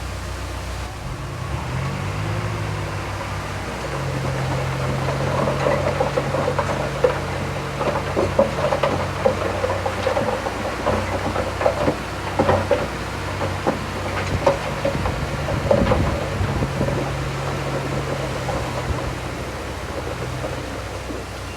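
Diesel engine of heavy earthmoving machinery running steadily and picking up load, with a series of sharp metallic clanks and knocks through the middle.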